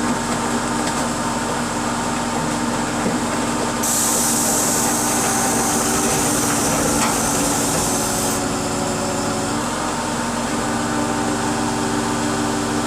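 Car crusher running steadily under load as it presses a car body flat, with a loud high hiss from about four seconds in until about eight seconds.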